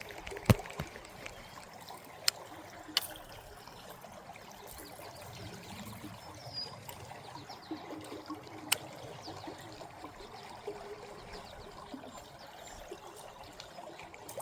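Creek water trickling steadily, with a few sharp clicks: one near the start, two a few seconds in and one about halfway through.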